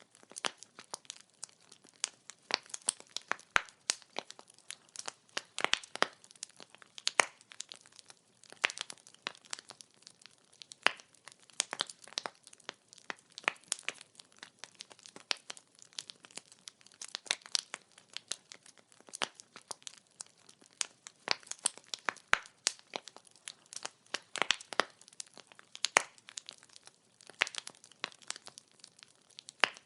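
Wood fire crackling: a dense, irregular run of sharp pops and snaps from burning firewood, with short quiet gaps between.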